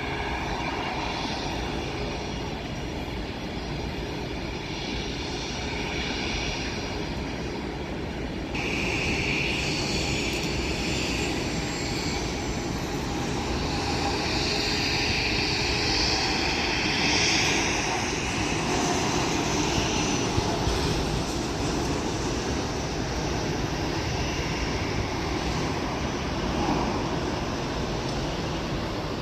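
Jet airliner engines running, with a high turbine whine over a steady rumble. The sound steps up abruptly about eight seconds in and stays loud.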